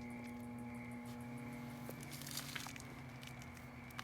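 Microwave oven running, just started on a one-minute heating cycle: a steady low electrical hum, with a few faint clicks and a sharper click near the end.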